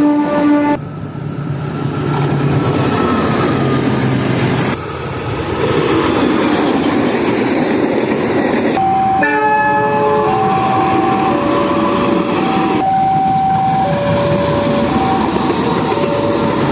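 Diesel locomotive horn chord ending about a second in, then the locomotive's diesel engine running and a train passing across several cut-together clips. In the second half, steady horn-like tones at two pitches alternate over and over.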